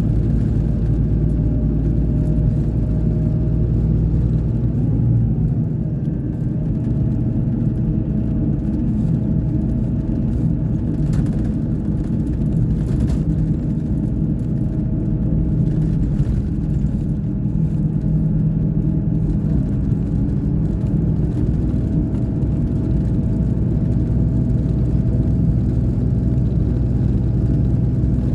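Scania K420 coach engine running steadily with a low drone, dipping briefly about six seconds in.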